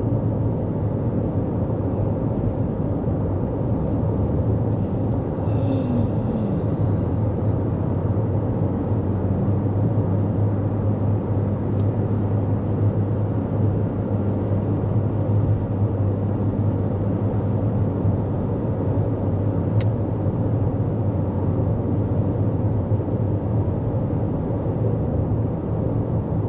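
Steady road and tyre noise of a 2024 Toyota Corolla Cross cruising at highway speed, with a constant low hum. A single faint click comes about two-thirds of the way through.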